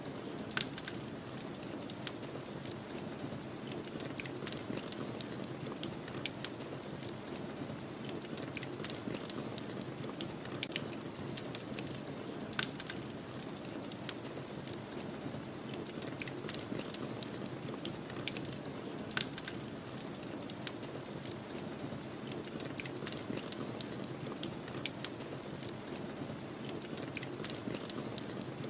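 Wood fire crackling, with frequent irregular sharp pops and snaps, over a steady low rush of snowstorm wind.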